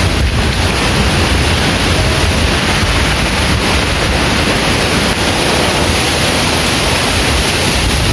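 Strong wind blowing steadily through garden trees, a loud even rush with a deep rumble of wind on the microphone.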